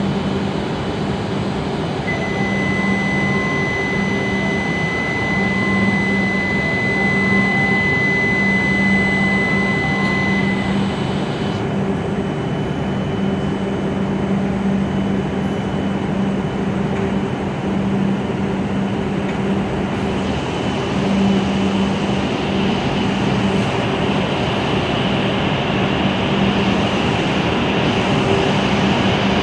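Hokuriku Shinkansen train running at the platform: a steady electric hum and rumble. A high, even tone sounds from about two seconds in until about ten seconds in, and the noise grows louder and brighter near the end.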